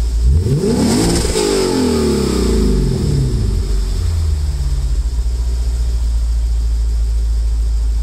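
Lexus IS F's V8 through a custom valved exhaust with no resonators, revved once. The pitch climbs for about a second, falls back over the next two, and the engine settles to a steady idle.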